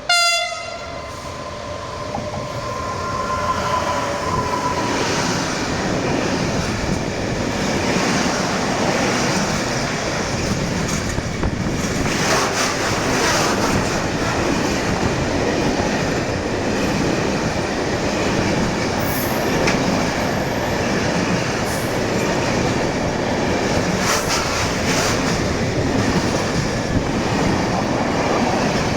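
Freight train passing close by: a short horn blast right at the start, then the steady rumble and clatter of the wagons rolling past.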